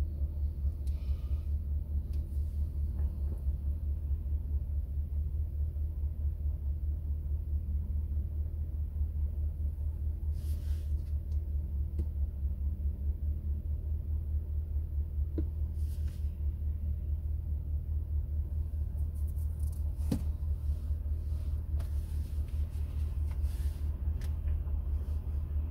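Low, steady rumble of a car idling at a standstill, heard from inside the cabin. A few faint clicks fall about ten, sixteen and twenty seconds in.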